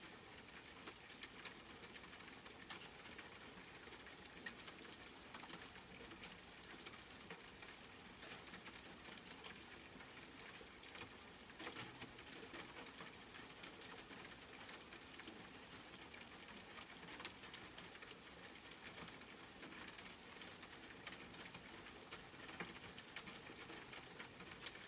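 Soft, steady rain pattering, a dense scatter of small drop ticks over an even hiss.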